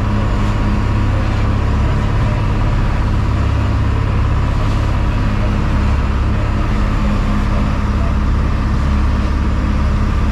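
A fishing boat's engine running with a steady low drone and a constant hum, with no change in speed.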